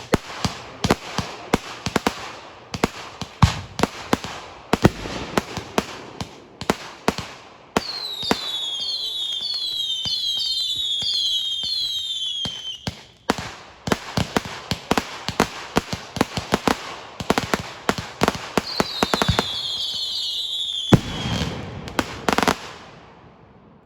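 Consumer fireworks going off in rapid succession: a dense run of sharp cracks and bangs. Twice a volley of shrill whistles sets in, several overlapping, each falling in pitch, and a few heavier booms come near the end before it dies away.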